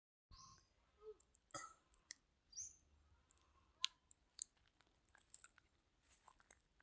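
Near silence broken by scattered faint clicks and ticks, with a few short high chirps.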